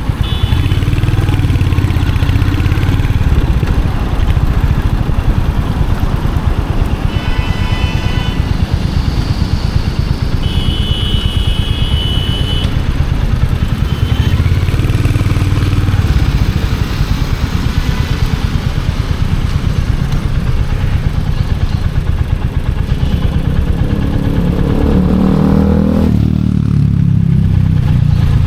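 Royal Enfield Hunter 350's single-cylinder engine and exhaust, heard from the rider's seat, running at low revs through city traffic. Near the end the revs rise and then drop off suddenly as the throttle is closed.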